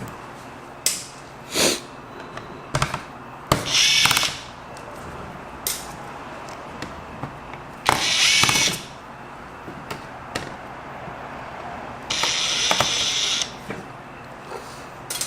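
A screwdriver backing small screws out of a laptop's chassis, in three main bursts of about a second each with a few small clicks between.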